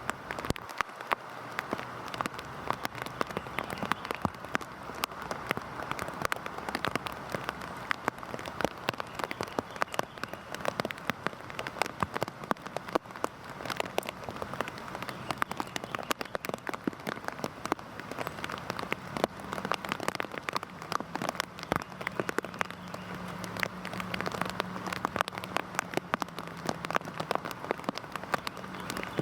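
Heavy rain falling steadily: an even hiss filled with a dense patter of individual drops striking a surface.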